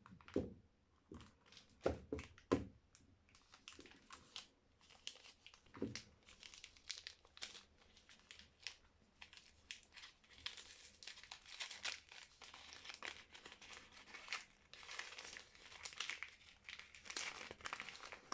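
Wrapping of a soap bar being handled and unpacked: a few sharp knocks early, then dense crinkling and tearing of the wrapper for the rest of the time.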